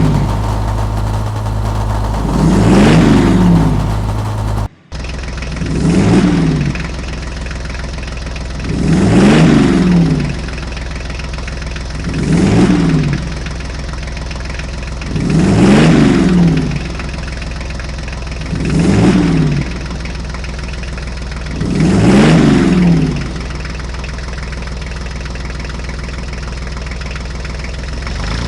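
Looped vehicle engine sound effect: a steady low running hum with a rev about every three seconds. It cuts out briefly about five seconds in, then the loop resumes.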